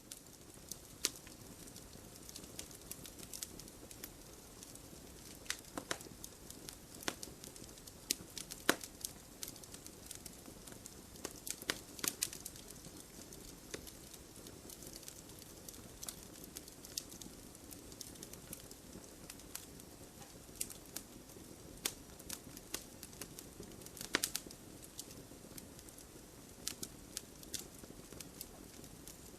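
Wood fire burning in a fireplace: a steady low rush of flame with irregular crackles and sharp pops from the logs, a few of them much louder.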